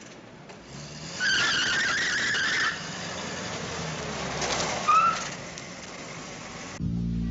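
A car on the move with its tyres squealing for about a second and a half, then a short rising squeak. Music comes in near the end.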